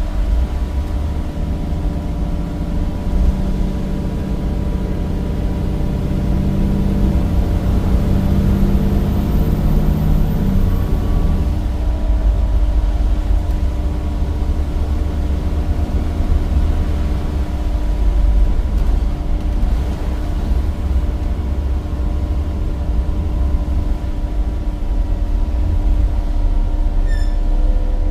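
A bus's Cummins diesel engine and ZF automatic gearbox heard from inside the cabin while driving, over a steady low road rumble with a constant drone. The engine note swells under load from about three seconds in, with a faint high whistle, then settles back about eleven seconds in.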